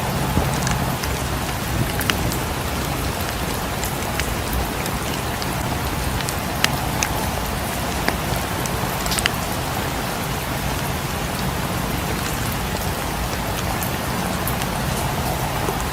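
Steady rain falling, mixed with the crackle of a wood fire: scattered sharp pops and clicks every second or two over the even hiss of the rain.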